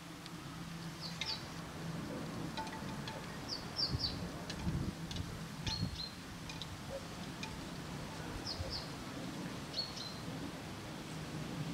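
Outdoor ambience with small birds giving short, high chirps every second or two, over a low steady hum.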